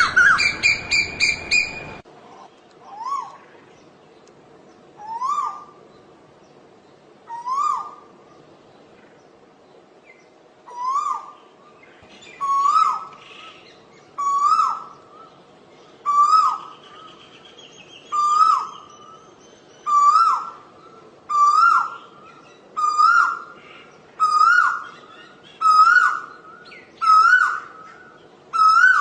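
Asian koel calling: a fast run of loud notes that cuts off abruptly, then a series of about fifteen rising two-note whistled calls. The calls come closer together and slightly higher in pitch as the series builds.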